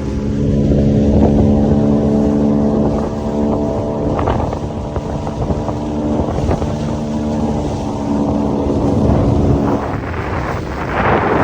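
Small boat's outboard motor running steadily underway, its pitch stepping up slightly near the start. A loud rushing noise, like wind hitting the microphone, takes over near the end.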